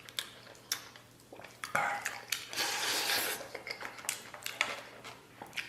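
Eating utensils clicking and clinking against a bowl, a string of sharp clicks with a longer rushing noise in the middle.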